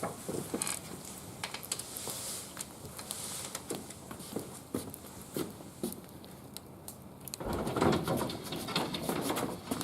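Small wood fire in a barbecue grill crackling, with scattered sharp pops. From about seven and a half seconds in, a louder stretch of rustling and knocking noise joins it.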